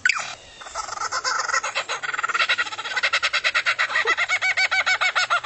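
An unidentified bird calling: a fast run of short, arched notes that speeds up to about ten a second and grows louder from about two seconds in, then stops near the end.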